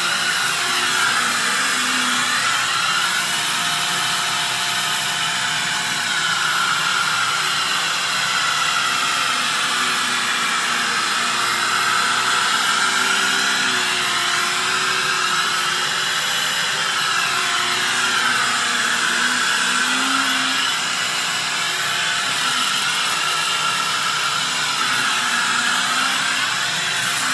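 Upright vacuum cleaner running steadily, its motor whine slowly rising and falling in pitch every few seconds.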